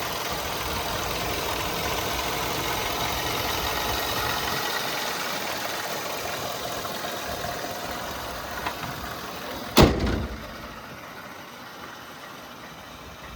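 Ford F-150 pickup engine idling steadily, with a single loud thump about ten seconds in, after which the sound is quieter.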